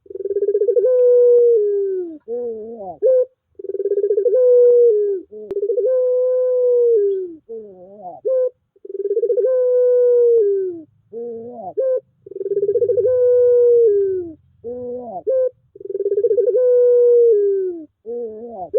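Puter pelung (Barbary dove) cooing over and over: each phrase is a short rising note followed by a long, drawn-out coo that bends down at the end, repeating every two to three seconds.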